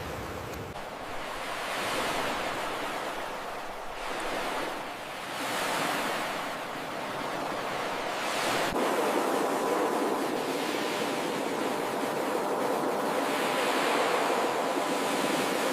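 Ocean surf: waves breaking and washing up the shore in slow swells, a big surge about two seconds in, another around six seconds, and a long one through the second half.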